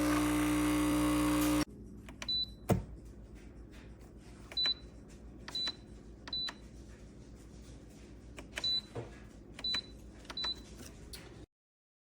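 A loud steady hum cuts off abruptly about a second and a half in. Then come short, high electronic beeps, about seven of them spread over the next ten seconds, several with a click at their start, before the sound stops dead.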